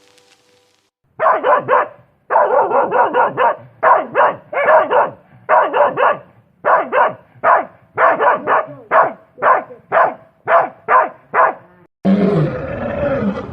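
Dog barking, a long run of short, rapid barks in quick bursts, followed near the end by a different, lower drawn-out animal call.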